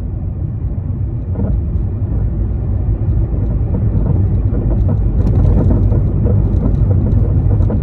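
Car being driven: a steady low rumble of engine and tyres that grows slightly louder, with light rattling from about five seconds in.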